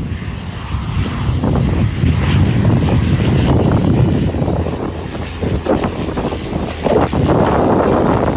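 De Havilland Canada Dash 8 Q300's twin turboprop engines running loud, a deep propeller drone with a thin steady high whine above it.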